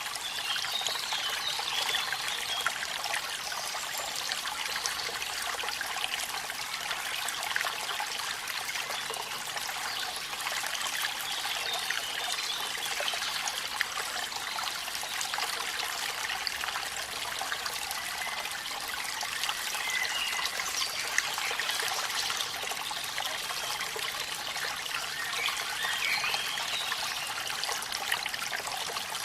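Steady splashing and rushing of water from a waterfall, with rain, sitting mostly in the upper range with little low rumble and many small drip-like ticks through it. Faint short chirps come through now and then.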